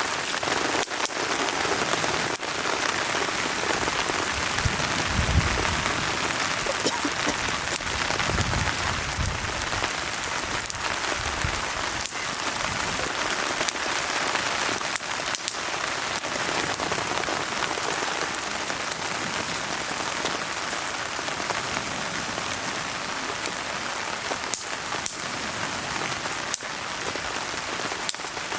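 Steady rain falling, with sharp crackles and pops from burning firewood scattered through it and a few soft low rumbles around five and ten seconds in.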